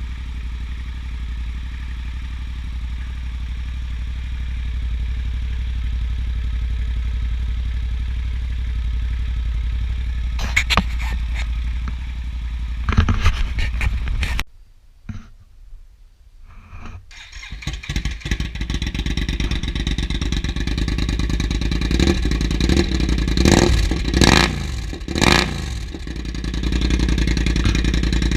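Yamaha XT1200Z Super Ténéré's parallel-twin engine through a GPR Furore aftermarket exhaust: it idles steadily with a couple of short blips, goes nearly quiet for a few seconds about halfway, then starts again and is revved in several quick throttle blips before settling back to idle.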